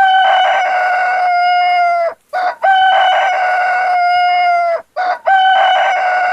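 Rooster crowing three times in a row, each crow a short opening note and then a long held call of about two seconds.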